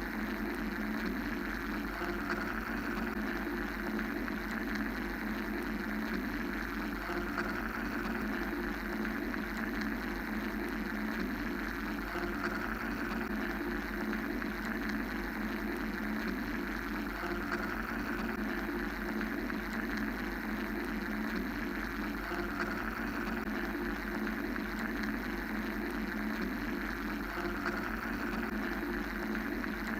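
Steady mechanical-sounding noise drone: a low hum under a dense rumbling band and a softer hiss that swells and eases every few seconds, with no breaks.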